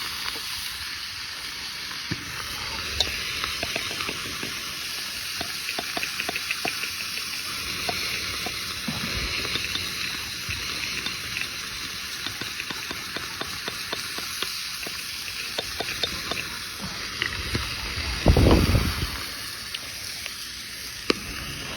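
Food sizzling as it fries over a campfire, a steady hiss with scattered small crackling pops. A dull low thud comes near the end.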